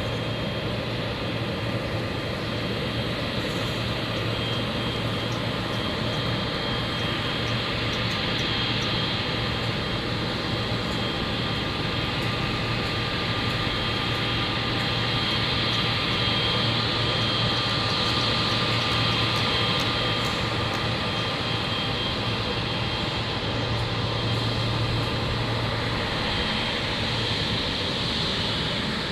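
Jet airliner engines running at takeoff power: a steady roar with a thin high whine over it, swelling slightly partway through.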